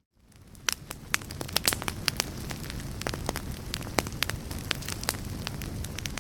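Fire crackling: irregular sharp pops and snaps over a steady low rumble and hiss. The sound dips to near silence at the very start, then builds back up over about the first second.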